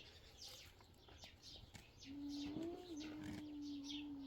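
Birds chirping: short falling chirps repeating every fraction of a second. From about two seconds in there is a steady low held tone, a hum or a coo.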